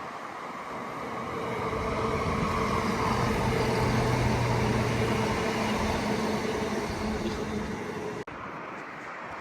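A train running past with a steady engine hum. It grows louder over the first few seconds, holds, then drops abruptly near the end.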